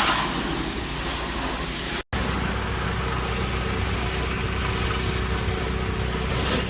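Hot-water pressure washer running steadily: an engine hum with a hiss over it. The sound drops out completely for an instant about two seconds in.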